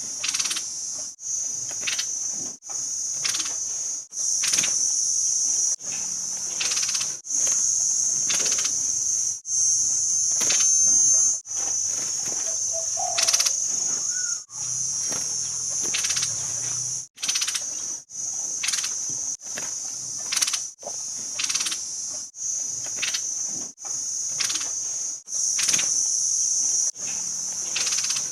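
A steady, high insect chirring, like crickets, broken by short gaps every second or so, with a few faint bird notes in the middle.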